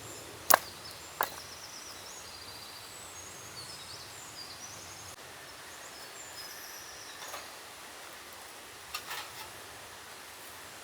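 Two sharp knocks close together near the start, the first the loudest sound, with a few softer clicks later. Small birds chirp in quick high phrases over a steady forest background.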